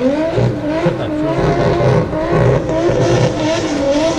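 Drift cars' engines revving hard, the pitch climbing at first and then bouncing rapidly up and down as the drivers work the throttle through a tandem drift run.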